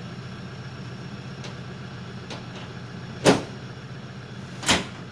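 Car engine running at a steady low hum, with two sharp knocks about a second and a half apart, the first about three seconds in.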